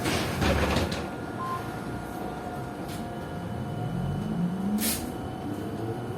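Inside a PKTS-6281.01 "Admiral" trolleybus: a loud rattling clatter in the first second. Then, from about halfway in, the whine of the IGBT inverter and DTA-3U1 AC traction motor rises steadily in pitch as the trolleybus accelerates, with a sharp click near the end.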